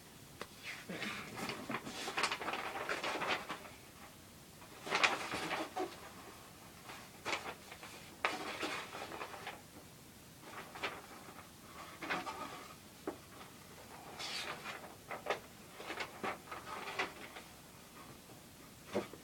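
Rustling, crinkling and light clicks from handling the contents of a plastic model kit box, the paper instruction manual and bagged parts. It comes in separate bursts with short quiet gaps between them.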